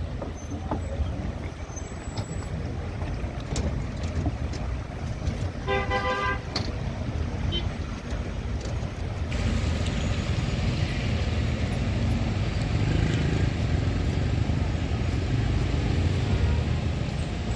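Road traffic rumbling past, with a car horn sounding once about six seconds in. From about nine seconds a louder, steady rushing noise sets in over the traffic.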